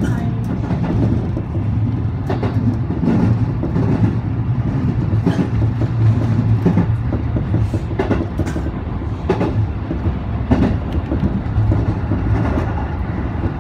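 JR commuter train running along the track, heard from inside the front carriage: a steady low rumble with the wheels clicking over the rails roughly once a second.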